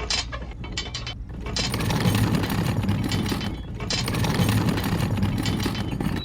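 Small geared motor of a DIY mini model tractor running, its plastic gears whirring with a dense clicking rattle. It grows louder about a second and a half in.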